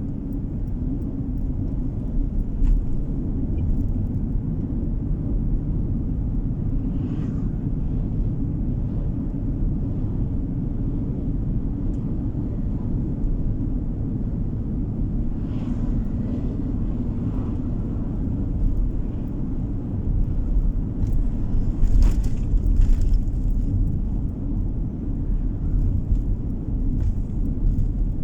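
Car driving along a road, heard from inside the cabin: a steady low rumble of engine and tyre noise, with a few light knocks or rattles, the loudest a little past two-thirds of the way through.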